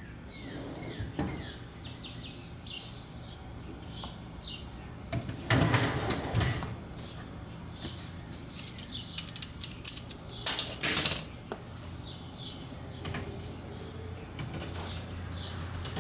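Small birds chirping in short high calls throughout, with two louder clattering noises about five to six seconds in and again near eleven seconds.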